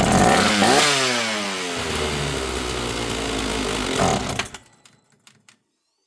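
An 80 cc-class Dolmar chainsaw fires on fuel primed into its carburetor. It runs for about four seconds, its revs falling off in the first second or so, then dies out.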